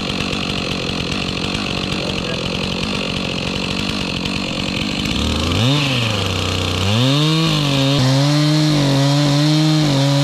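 Gas chainsaw idling with a fast low putter, then about five seconds in it revs up, dips briefly, and runs at high, steady speed for about four seconds, the pitch wavering slightly as it works; it falls back as the throttle is released at the very end.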